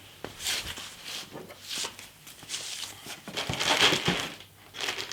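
Plastic packaging rustling and crinkling in irregular bursts as it is opened and pulled off the welder's cables, with a few light knocks. The rustling is loudest a little before the end.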